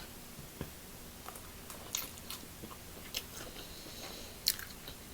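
A person chewing food close to the microphone: faint, with a few scattered short wet clicks and smacks.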